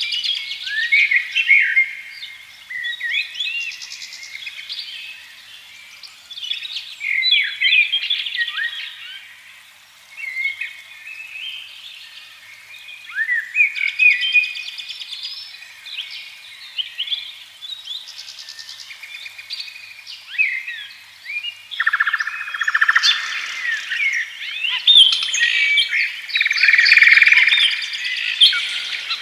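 Several songbirds singing and chirping at once, a dense chorus of short rising and falling notes and trills that grows busier near the end.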